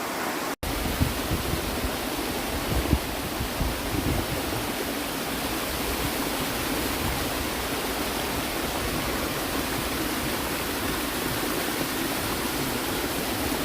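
Steady rush of flowing water, as from a hillside waterfall or stream, a constant even roar; it drops out for an instant about half a second in and then carries on with more low rumble.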